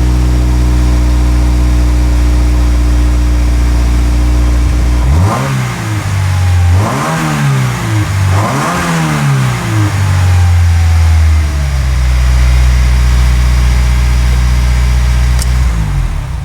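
A 2020 Subaru WRX's 2.0-litre turbocharged flat-four engine idling steadily, then revved up and back down three times about five seconds in, before settling back to idle.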